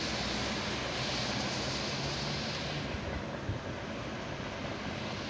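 Freight train of grain hopper wagons hauled by a 2TE116 diesel locomotive rolling past: a steady rumble and low hum, with a higher hiss that eases off about three seconds in.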